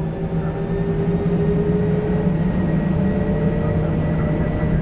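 Airbus A320 jet engines spooling up as takeoff power is applied, heard from the cockpit. It is a low hum with a steady whine above it, growing louder through the first second or so, then holding steady.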